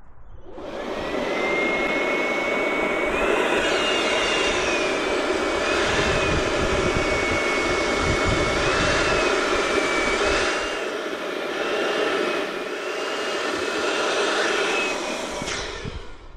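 Electric balloon inflator running steadily for about fifteen seconds, a blowing rush with a high whine that wavers up and down, then switched off near the end.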